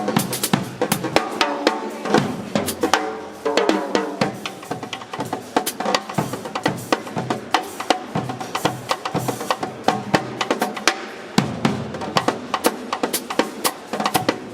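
A Sonor drum kit played live in a busy groove: fast, dense snare and bass drum strokes with rimshots.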